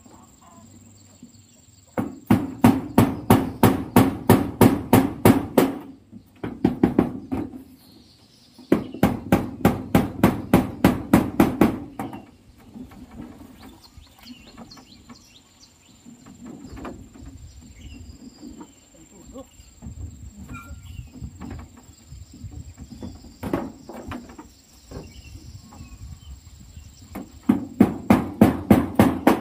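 Hammer driving nails in quick runs of strokes, about four a second, in several bursts, with quieter scattered knocks between them.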